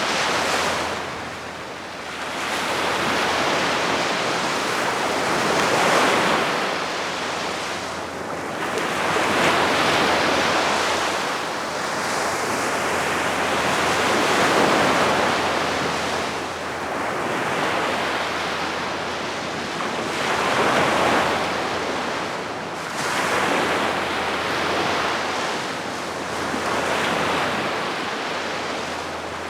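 Gentle sea waves breaking and washing up the beach, swelling and ebbing every few seconds, with a light wind.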